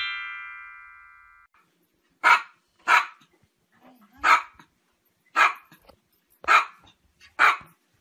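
A chime sound effect rings out and fades over the first second and a half. Then a small dog barks single sharp barks, six of them, about one a second.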